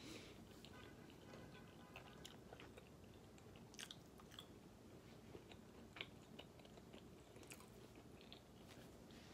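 Faint mouth sounds of a person chewing seasoned french fries: soft wet clicks scattered through, a few slightly louder ones about four and six seconds in.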